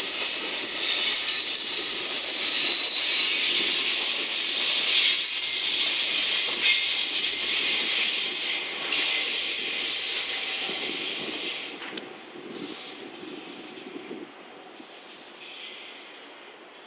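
Container flatcars of a long freight train rolling past, a steady loud rush of steel wheels on rail. About two-thirds of the way through the last wagon goes by and the sound drops away sharply, fading as the train recedes.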